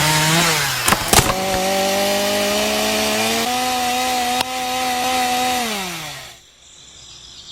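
Small electric motor of a homemade mini wood saw whining steadily as its blade cuts wood, with two sharp knocks about a second in. The pitch steps up a little about halfway through, then the motor winds down and stops near the end.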